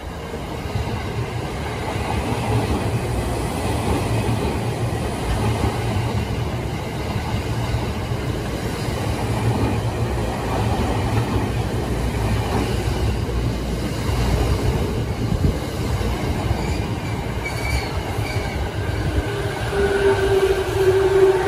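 JR East E217-series electric commuter train running past close by, with a steady low rumble of wheels on rail. Near the end a drawn-out squeal comes in as the train brakes into the station.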